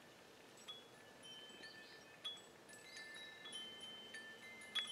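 Faint chimes ringing at several pitches, struck at irregular moments, each note ringing on for a second or more and overlapping the next.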